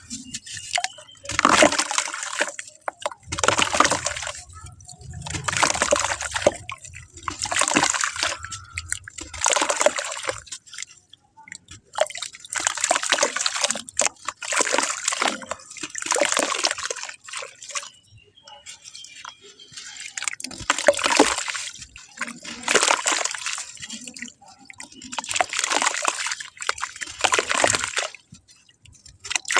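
Clay being crumbled in repeated crunchy bursts, each about a second long, coming roughly every two seconds.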